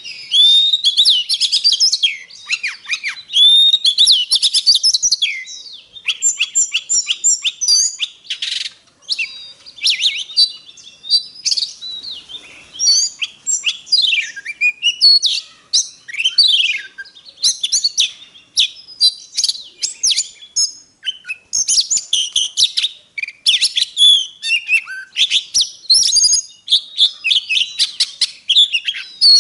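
Oriental magpie-robin singing a long, varied song of loud whistles, sliding notes and rapid chattering phrases, broken by short pauses. It is a fired-up lure song, played to stimulate other magpie-robins to sing.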